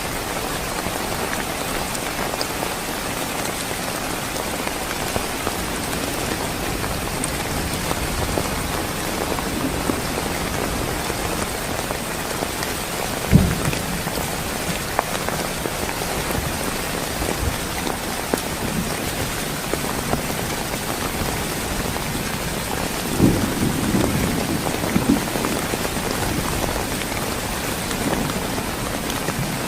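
Heavy rain falling steadily, a dense even hiss of drops, with a few brief low thuds about 13 seconds in and again in a cluster around 23 to 25 seconds.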